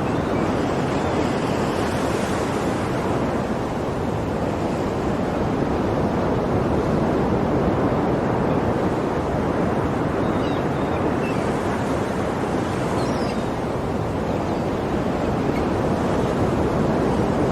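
Sea waves washing steadily onto a shore, a continuous rushing surf that swells and eases gently.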